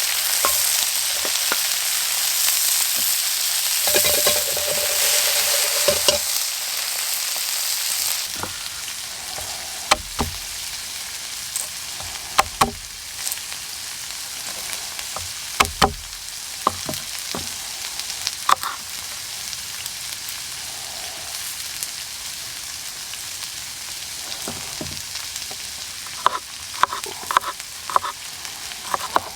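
Stir-fry sizzling in a hot pan while a utensil stirs and taps against it. The sizzle is loud for the first eight seconds, then quieter, with scattered clicks and knocks from the stirring.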